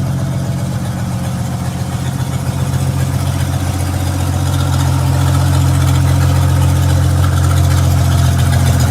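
1960 Ford F100's original 223 straight-six idling steadily soon after a cold start in freezing weather, running with its air cleaner removed.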